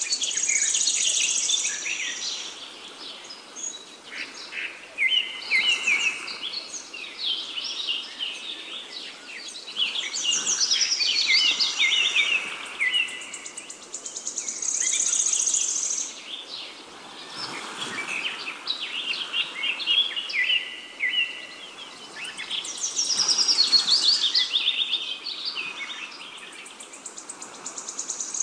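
Several birds singing and chirping, with quick overlapping trills and twitters and a high buzzy trill that recurs every dozen seconds or so, over a faint steady hiss.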